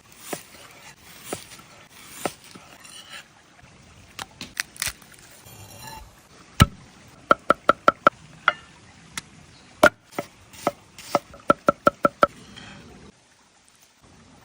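Knife chopping food on a wooden board: scattered single chops, then two quick runs of strokes about five or six a second that ring slightly, with one sharp, loud chop between them.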